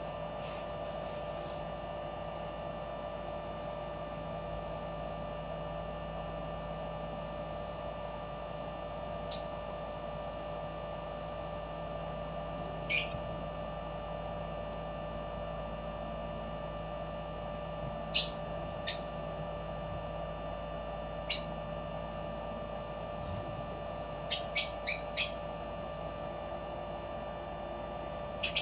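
Short, high bird chirps now and then, with a quick run of four near the end, over a steady hum.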